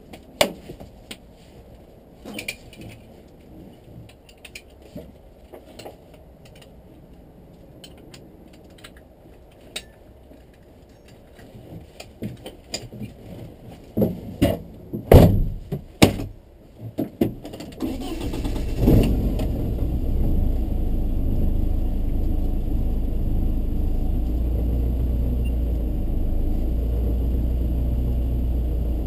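Clicks and knocks inside the cockpit of a BMW E36 318is race car, a few loud sharp ones bunched together, then its four-cylinder engine starts after about eighteen seconds and settles into a steady idle.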